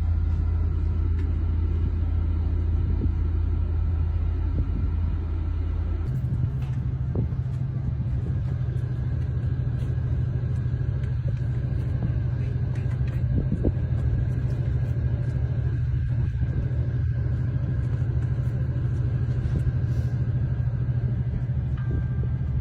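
A steady low rumble with a deep hum that steps up in pitch about six seconds in and then holds.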